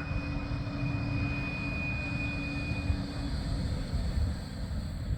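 Bombardier Flexity 2 light rail tram running, a steady low rumble with a steady high whine that stops about three seconds in.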